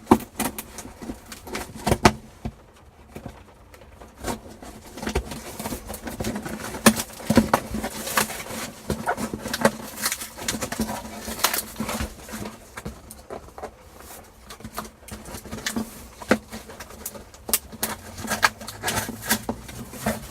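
A sealed cardboard box being forced open by hand: irregular tearing, scraping and knocks at heavy packing tape and cardboard, in fits and starts.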